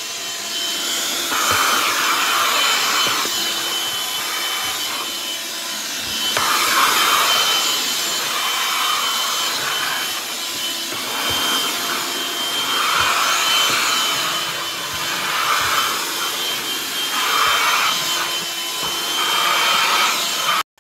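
BLACK+DECKER Dustbuster QuickClean cordless handheld vacuum running: a steady high motor whine over rushing air, with swells of louder suction noise every couple of seconds. It stops abruptly just before the end.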